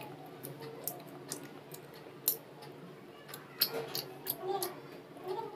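A child chewing a crunchy chocolate ball, heard as scattered sharp clicks and crunches, with a faint murmur of voices behind.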